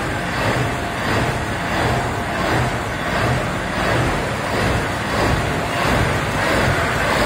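Twin-stack exposed V12 engine (21.6 litres, four turbochargers) of a Chevrolet C-68 rat rod running steadily and loudly at rest.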